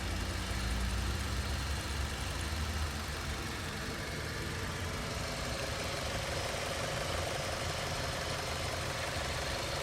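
Mazda 6's 2-litre inline-four engine idling steadily.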